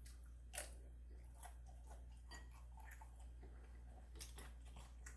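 Faint chewing of food close to the microphone: a few soft, short clicks over a low steady room hum, the clearest a little after the start and a small cluster near the end.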